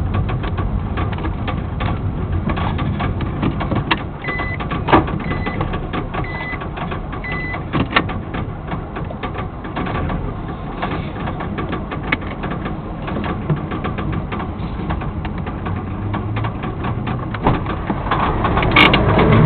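Nissan NV350's YD25 2.5-litre four-cylinder turbo-diesel running with strong knocking and uneven running, a dense irregular clatter; four short high beeps sound between about four and seven and a half seconds in. The knock is the sign of a fuel-pump fault: the diagnostic tool flagged a pump reliability error, which an ECU pump-learning reset cured.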